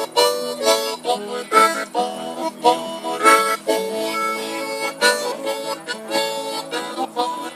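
Harmonica playing a melody over rhythmically strummed guitar.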